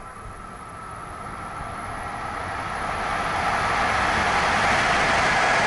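A train approaching, its running noise swelling steadily louder over about four seconds and then holding loud.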